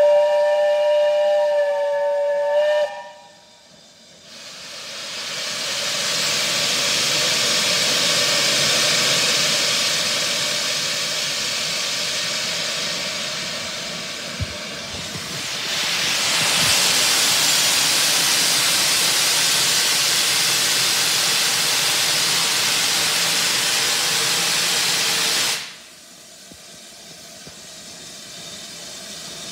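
A Britannia class steam locomotive's whistle sounds for about three seconds, then a loud, steady hiss of escaping steam builds up and runs on until it cuts off sharply near the end, leaving a fainter hiss.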